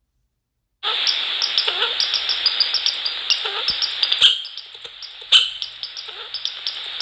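Small birds chirping rapidly at a feeder, heard through a webcam microphone over a steady hiss, with a few sharp knocks. The sound cuts in abruptly just under a second in.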